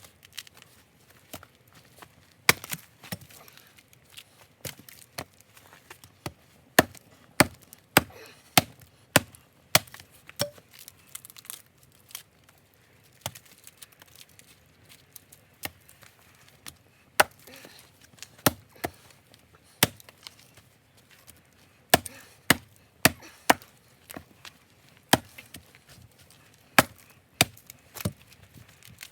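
Hatchet chopping into a piece of fatwood: sharp, separate wooden strikes at an uneven pace, often one or two a second and sometimes in quick runs.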